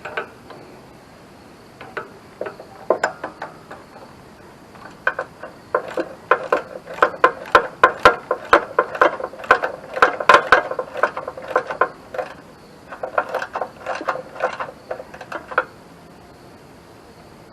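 Hand ratchet wrench clicking in quick runs as the starter's mounting bolts are tightened, with brief pauses between strokes.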